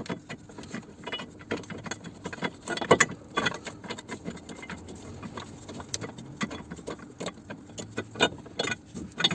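Irregular metal clinks, taps and rattles of bolts and hand tools being handled and fitted by hand, with one louder knock about three seconds in.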